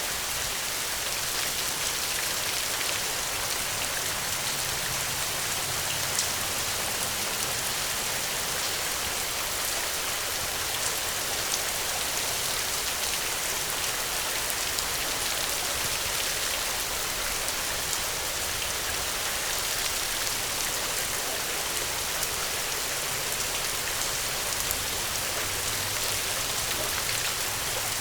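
Steady rainfall, an even hiss of rain on a surface with scattered individual drop ticks.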